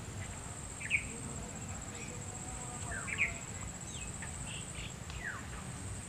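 A bird giving short sharp calls about every two seconds, with a few falling whistles, over a steady high-pitched insect drone.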